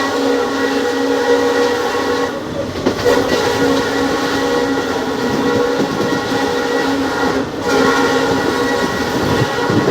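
WDP4D diesel locomotive's horn sounding in long held blasts, breaking off briefly twice, over the noise of the running train.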